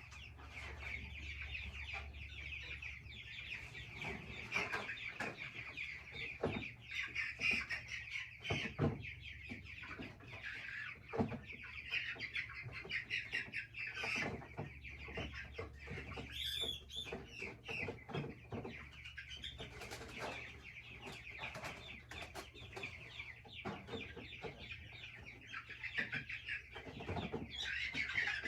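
A crowd of young Big Red Broiler chicks peeping continuously, with occasional knocks and rustles from handling.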